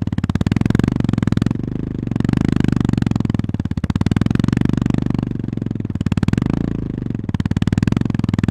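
Honda 348 cc air-cooled single-cylinder engine (GB350S) running under way, a fast, even train of firing pulses. The throttle eases off briefly twice, once about two seconds in and again about seven seconds in.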